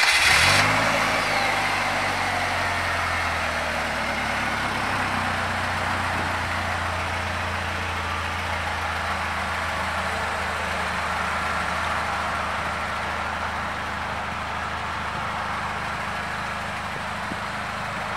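2018 Polaris Slingshot SLR LE's 2.4-litre four-cylinder engine just after it catches: the high idle right after the start falls over the first few seconds and settles into a steady idle.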